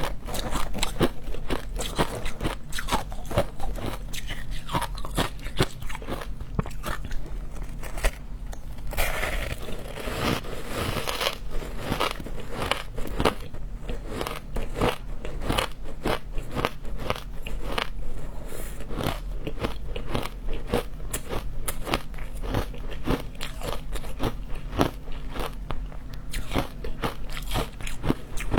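Frozen matcha ice being bitten and chewed close to the microphone: a dense, continuous run of sharp crunches and cracks, with a longer grinding crunch about nine seconds in.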